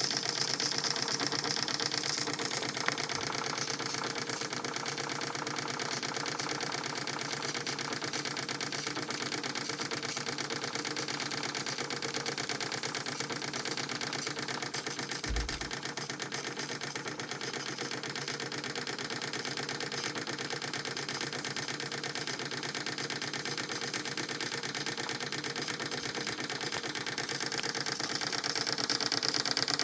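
Krick model marine steam engine running fast: a rapid, even mechanical clatter with a steady hiss of steam, the hiss stronger at the start and again near the end. One brief low thump about halfway through.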